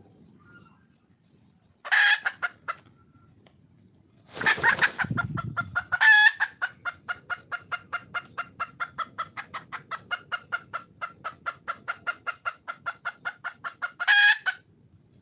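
Wild junglefowl hen calling. A short burst of calls comes first, then a loud rustling burst. After that a long fast run of clucks at about five a second lasts some eight seconds and ends in a louder call. It is a hen's call to draw a male.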